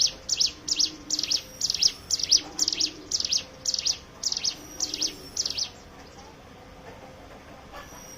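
Ciblek gunung (a prinia) singing a fast, regular series of sharp, high chirps, about two to three a second, which stops about six seconds in.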